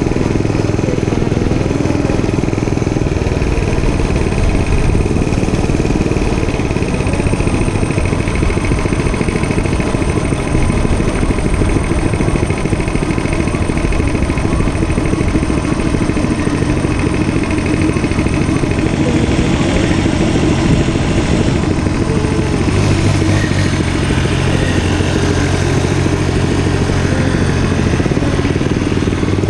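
Dirt bike engine running steadily, its note shifting up and down a few times, with a constant rushing noise over it.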